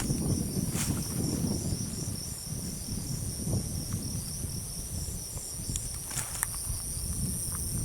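Night insects such as crickets chirping in a steady chorus: a high hiss with a quick, even pulsing chirp under it. A low rumble of wind or handling noise runs underneath.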